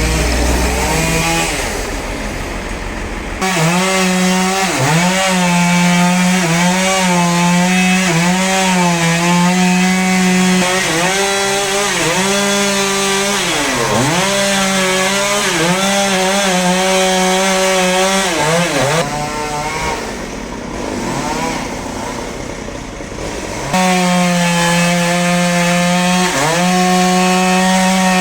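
A two-stroke chainsaw cutting into a large log. It comes up to full throttle about three seconds in, and its pitch keeps dipping briefly as the chain bogs under load. It eases off for a few seconds around two-thirds of the way through, then goes back to full throttle near the end.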